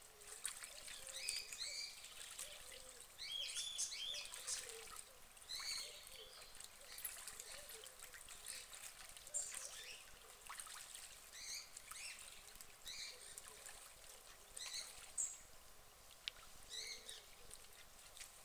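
Birds chirping faintly in short calls that come again every second or so, over quiet outdoor background noise.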